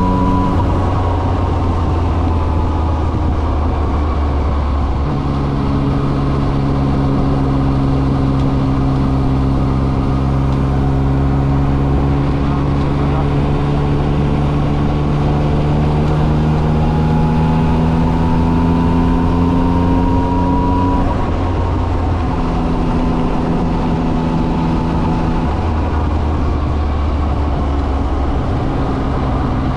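Yamaha XSR900's inline three-cylinder engine running under way, its pitch creeping up and then dropping at gear changes about five seconds in and again around twenty-one seconds in, with smaller drops later. A steady low rumble runs beneath the engine note.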